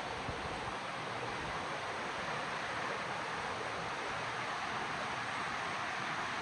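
River water rushing, a steady even hiss.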